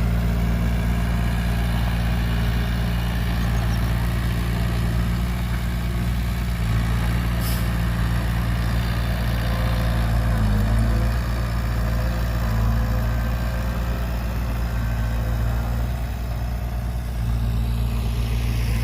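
Heavy diesel engine running steadily at low revs, its even drone shifting briefly about halfway through.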